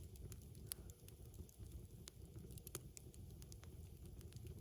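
Faint crackling of a wood campfire: scattered small, irregular pops and snaps over a low, quiet background.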